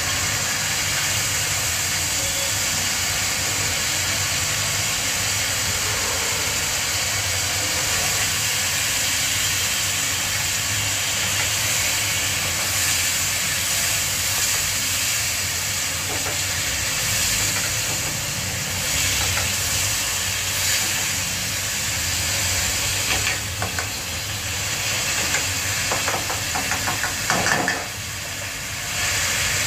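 Spice paste sizzling and frying in oil in a stainless steel karahi, with a steady low rumble under it. Pieces of chicken are tipped in partway through, and a wooden spatula scrapes and knocks against the pan several times near the end.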